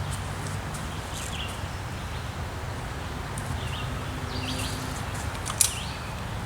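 Small birds chirping on and off, short dipping calls repeated several times, over a steady low background rumble. One sharp click sounds near the end.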